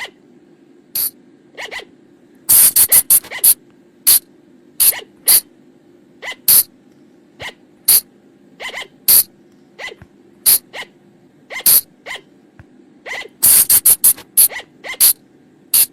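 Sunda colugo (flying lemur) lure-call recording: a couple of dozen short, shrill calls, some single and some in quick runs of four or five, over a low steady hum.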